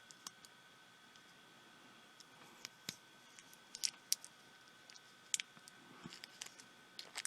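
Small, sharp clicks and ticks, scattered irregularly, as the tiny plastic parts of a pico projector are handled and pulled apart, over a faint steady high whine.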